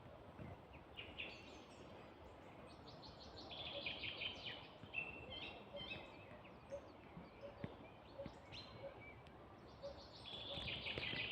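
Songbirds singing in woodland: bursts of high, chattering song every few seconds over a steady background hiss, with a faint low note repeating about twice a second through the second half.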